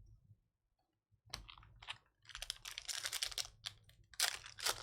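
Foil trading-card pack wrapper crinkling as it is torn open, with cards clicking against each other as they are handled. The crackling starts about a second in and gets denser and louder toward the end.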